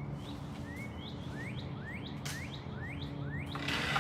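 A songbird calling a quick series of short rising whistled notes, about three a second, over a steady low hum. A sudden rush of noise starts near the end.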